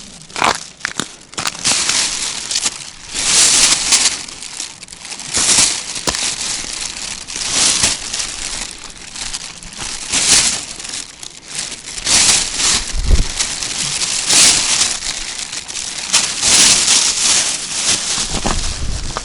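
Loud, irregular crinkling and crunching handled close to the microphone, in uneven bursts every second or two.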